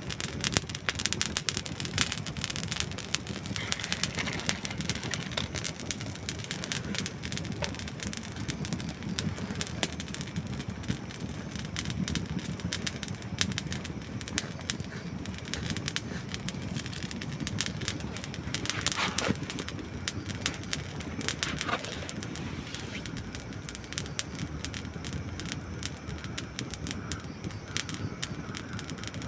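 Dry wood burning in a campfire, crackling and popping irregularly over a low, steady rush of flame.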